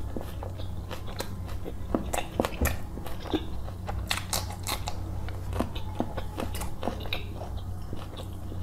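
A person chewing food close to the microphone: irregular wet clicks and smacks from the mouth, with a bite into a raw green chili about four seconds in. A steady low hum lies underneath.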